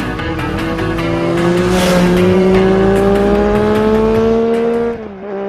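An engine accelerating, its pitch climbing slowly and steadily, then dropping briefly near the end, like a gear change, before holding level, over music with a beat.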